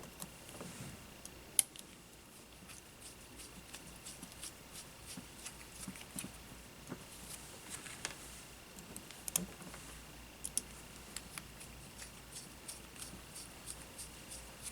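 Scattered small clicks and taps of hand tools and small drone parts being handled on a workbench, with one sharper click about one and a half seconds in. A faint steady high tone runs underneath.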